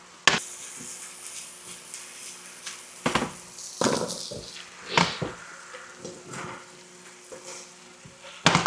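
Chicken and vegetables in sauce sizzling in a pan on high heat, with a steady hiss, while a utensil stirs and knocks against the pan about five times.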